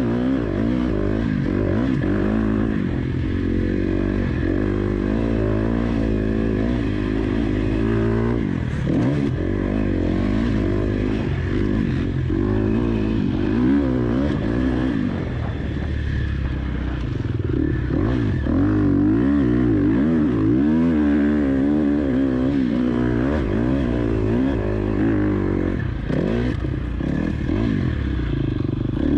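KTM 250 SX-F four-stroke single-cylinder motocross engine being ridden hard, its pitch rising and falling over and over as the throttle is opened and closed.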